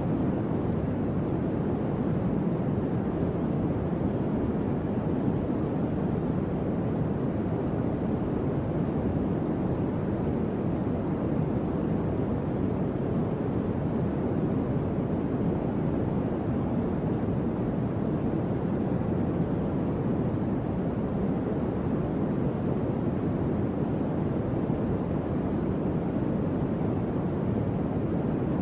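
Electric fan running steadily: an even, low rush of moving air with no changes in level.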